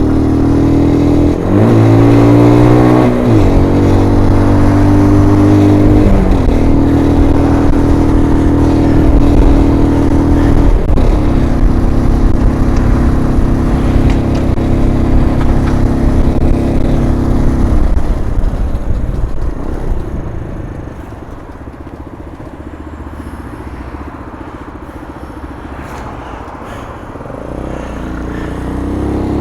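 MGB ATX 125cc motorcycle engine pulling up through the gears, its note rising and dropping back at each shift in the first ten seconds or so. It then runs steadily until about eighteen seconds in, goes much quieter as the throttle is backed off, and picks up again near the end.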